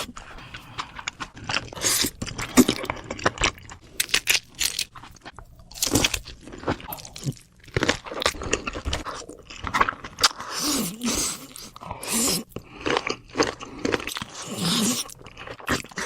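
Close-miked chewing and crunching of crisp food, with irregular crackling bites and crunches through the stretch.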